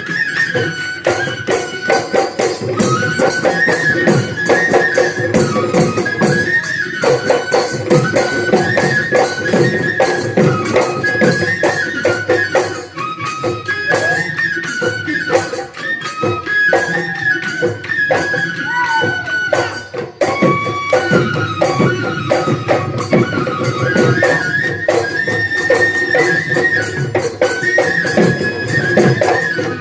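Assamese Bihu folk music: a high, stepping wind-instrument melody over dense drumming and jingling cymbals.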